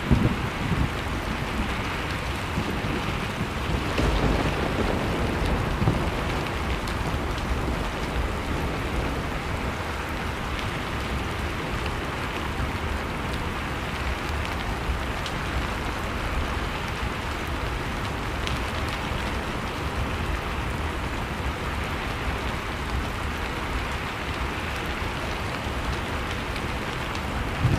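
Layered blizzard-and-fireplace ambience: wind over a wood fire, heard as an even, steady hiss with a low rumble beneath and a few faint sharp crackles.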